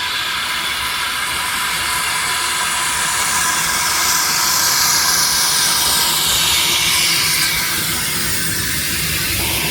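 Steam locomotive, the saddle tank 'Trojan' No. 1340, letting off a loud, continuous hiss of steam. The hiss takes on a sweeping, falling quality from about four seconds in.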